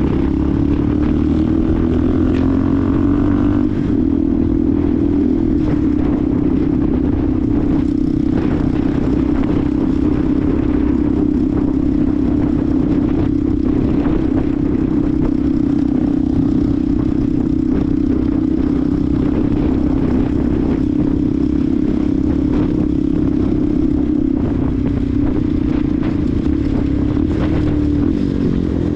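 Benelli TNT 125's 125 cc single-cylinder engine running under way. The revs climb over the first few seconds, hold steady through the middle and drop and pick up again near the end, with wind and road noise throughout.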